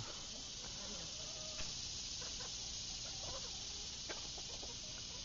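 Faint outdoor ambience: a steady high-pitched hiss like insects, with a few faint short bird calls over it.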